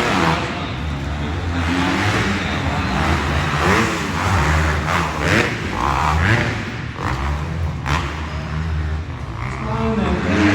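Several dirt bike engines running and revving around the track, their pitch rising and falling as the riders throttle on and off.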